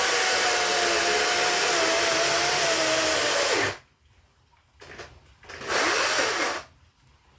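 Chainsaw running flat out through firewood, its pitch sagging slightly under load, then cutting off abruptly about three and a half seconds in. A brief second burst of the saw follows about two seconds later, rising and falling in pitch.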